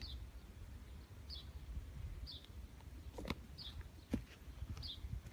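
A bird repeating a short, high chirp about once a second, five times. Two sharp clicks come about three and four seconds in, over a low wind rumble.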